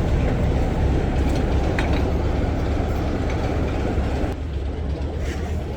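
Heritage diesel locomotive engine idling steadily with a low rumble, the upper part of the sound thinning a little about four seconds in.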